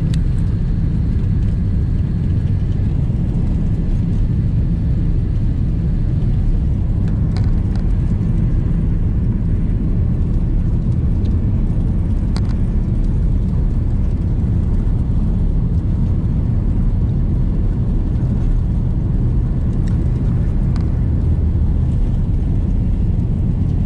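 Airbus A330-300 airliner taking off, heard from inside the cabin: a steady, loud low rumble of the jet engines at takeoff power and the rush of the aircraft, with a few faint rattles.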